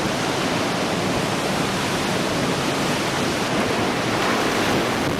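Floodwater rushing with a steady, even noise.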